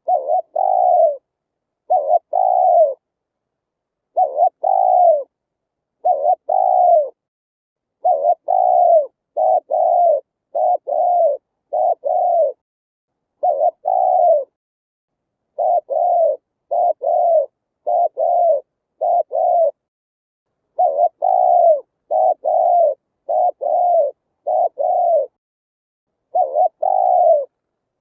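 Spotted dove cooing: short phrases of a few notes, the last note falling in pitch, repeated about once a second in runs, with dead silence between them. A cleaned, looped recording of the kind played through a speaker to lure wild doves.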